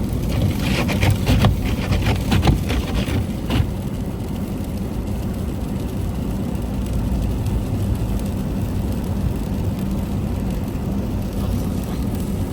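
Steady low engine and road rumble of motor traffic, with a few crackles and clicks in the first few seconds.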